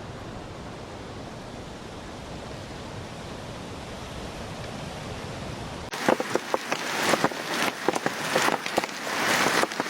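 Steady rushing noise of a heavy storm downpour, then an abrupt cut about six seconds in to rain and hail pelting a hard surface in dense, irregular clattering hits that grow louder toward the end.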